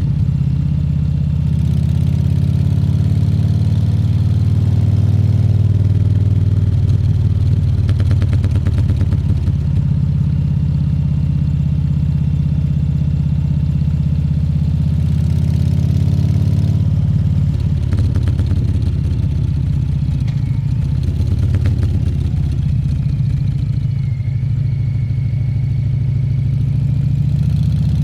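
Harley-Davidson Fat Bob 114's Milwaukee-Eight 114 V-twin running through its exhaust, a deep steady engine note whose pitch shifts several times as the throttle changes.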